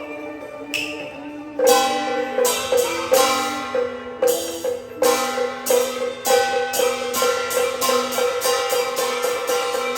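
Beiguan ensemble music for Fulu opera: quiet sustained melody at first, then a run of sharp percussion strikes entering about a second and a half in over held melodic lines.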